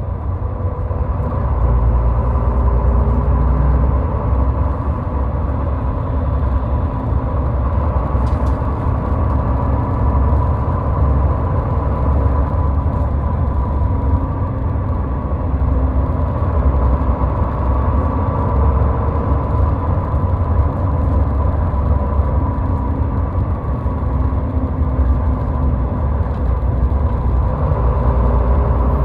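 Car driving at highway speed: steady road and engine rumble with a faint steady whine.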